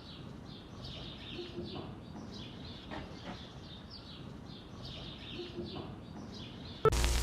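Small birds chirping: a steady run of short chirps, about two or three a second, over low background noise.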